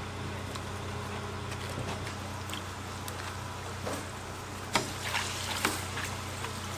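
A steady low machine hum under a faint hiss, with a few sharp knocks or clicks close together near the end.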